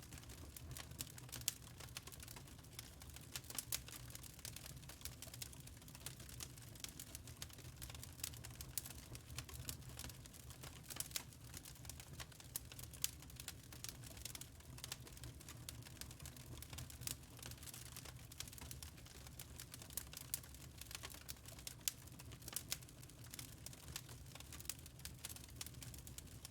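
Wood fire crackling in a fireplace: irregular sharp snaps and pops, several a second, over a low steady hum.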